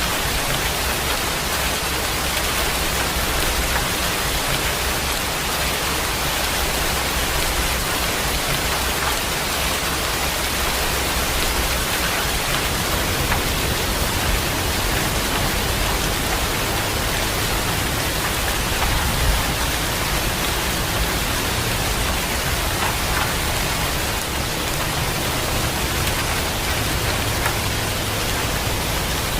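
Heavy rain falling steadily, a constant even hiss of drops.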